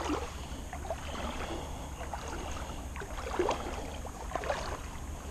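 Footsteps crunching on a gravel road, irregular steps about once a second over a steady low rumble.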